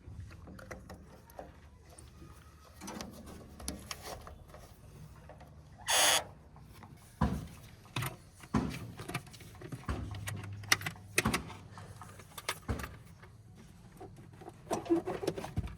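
JCB 3DX backhoe loader's diesel engine running while it digs and loads murum, with a series of sharp knocks and clatters from the bucket and soil. A loud short rush of noise comes about six seconds in.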